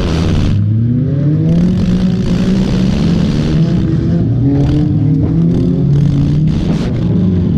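Junk race car's engine revving up and down under hard driving, its pitch rising and falling every second or two, with scattered clattering knocks.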